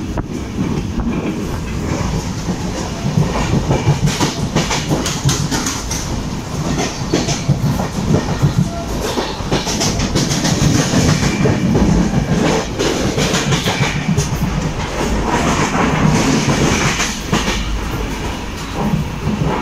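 Passenger train running at speed, heard from on board: steady rumble with wheels clicking over rail joints.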